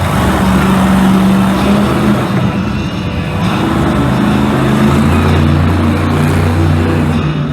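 Monster truck engine running loud, its pitch holding and then shifting as the throttle is worked, with arena music under it.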